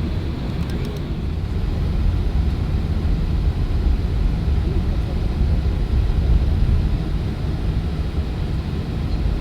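Low, steady rumble of an Airbus A380 heard inside the passenger cabin, swelling a little from about two seconds in.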